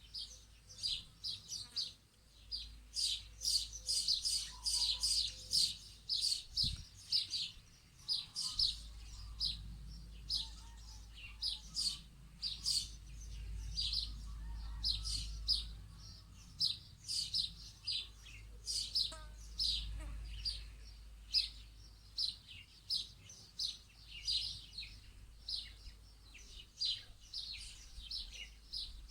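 Small birds chirping, with many short, quick chirps repeating without pause. A low rumble runs underneath and swells for a while in the middle.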